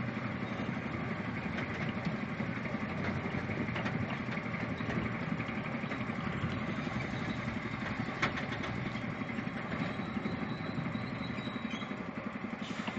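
Zoo train locomotive's engine idling steadily while the train stands still, with a short click about eight seconds in.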